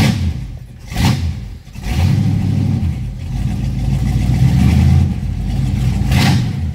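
Carbureted car engine catching and running rough, its level dipping twice in the first two seconds, then running more steadily for about four seconds. It struggles to keep running, which the owner puts down to the car being low on gas.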